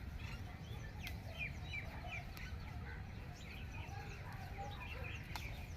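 Birds chirping: many short, quick calls that drop in pitch, scattered irregularly, over a steady low rumble.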